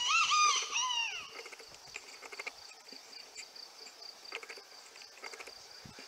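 A bird gives one loud call in the first second, a string of short pitched notes ending in a falling note. A steady high insect trill runs beneath it.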